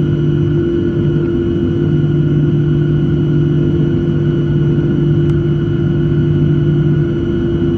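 Boeing 737 jet engine running during its start, a loud steady drone with a low hum and a couple of held tones that do not rise or fall.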